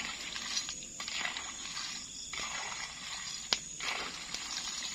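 Night-time insect chorus in the forest: a steady high-pitched whine over a hissing drone that swells and dips about once a second. A single sharp click sounds about three and a half seconds in.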